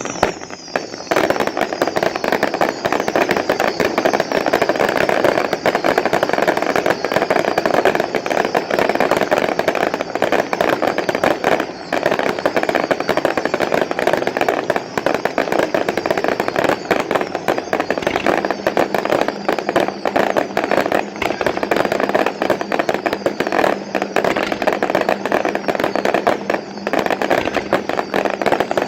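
Consumer fireworks going off in a dense, continuous barrage of rapid crackling reports. A high whistle falls in pitch at the start.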